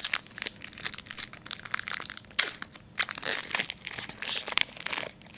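Foil trading-card pack wrapper crinkling and crumpling in the hands, in irregular bursts with louder clusters in the middle and near the end.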